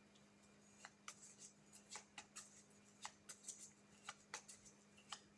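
Faint, irregular soft clicks and rustles of a tarot deck being shuffled and handled, a few a second, over a low steady hum.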